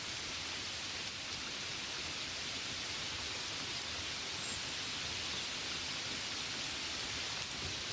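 Steady gentle rain: an even hiss that holds level throughout, with no single drops standing out.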